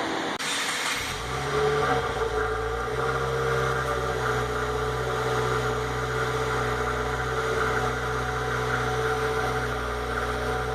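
Cold start of a stock 2015 Subaru WRX's 2.0-litre turbocharged flat-four through its factory quad-tip exhaust: the starter cranks briefly, the engine catches about a second in with a short flare, then settles into a steady cold idle.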